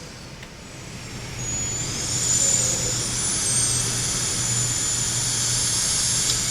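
Gale-force storm wind rushing with a high, thin whistle, growing louder about a second and a half in and then holding steady.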